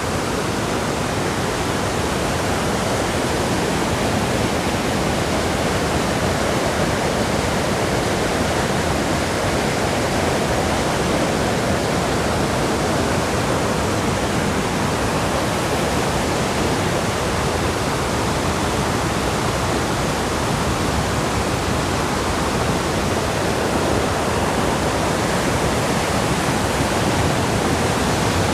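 Steady rush of river rapids, white water pouring over rocks in an even, unbroken roar.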